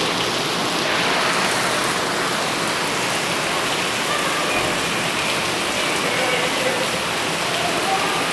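Heavy rain pouring down steadily, a dense unbroken hiss of falling water.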